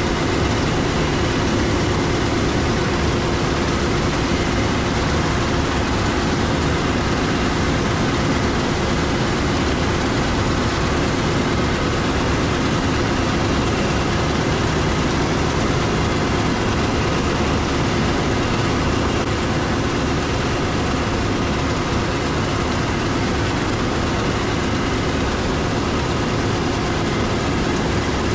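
Heavy diesel harvest machinery running steadily under load, a loud, even hum with a constant drone.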